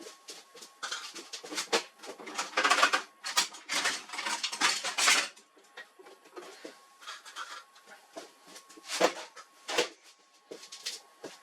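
Hard plastic and metal printer parts being handled and worked loose by hand: an irregular run of clicks, knocks and scraping rattles, with a faint steady whine underneath.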